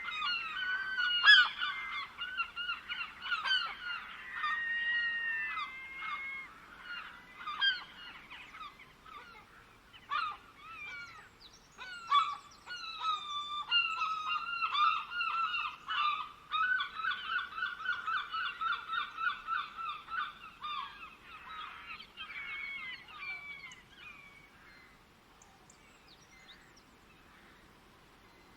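A flock of birds calling over one another in many short, repeated calls that die away about 25 seconds in, leaving a faint background.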